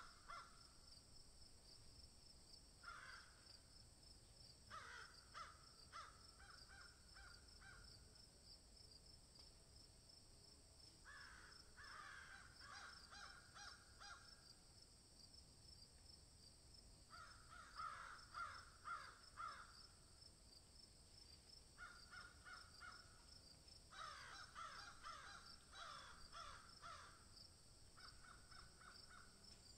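Faint bird calls in about seven bursts of rapid, repeated harsh notes a few seconds apart, over a steady high insect trill.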